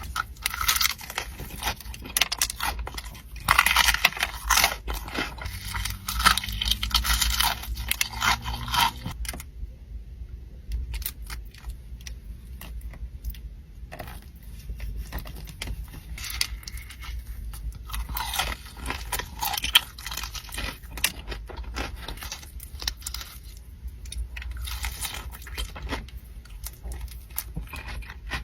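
Close-miked eating: crunching and chewing of crisp food, full of clicks and crackles with some scraping, in dense runs with a quieter stretch about ten seconds in.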